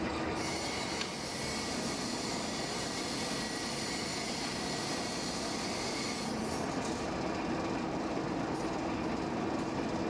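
Workshop machinery running steadily, a continuous mechanical rumble with a bright, hissing high edge that stops about six seconds in.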